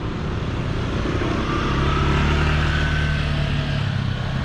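A motor vehicle engine passing by: a low steady engine hum that swells to its loudest about two seconds in, then eases off.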